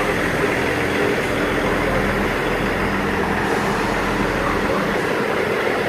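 Class 158 diesel multiple unit idling at the platform: a steady engine hum with a low, even drone.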